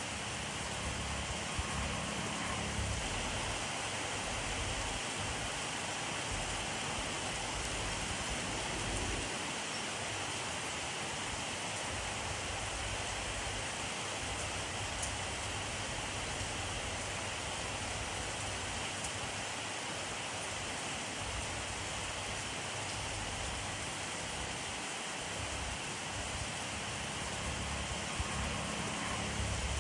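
Steady rainfall, a dense even hiss of rain falling on surfaces, with a low rumble swelling faintly near the start and again near the end.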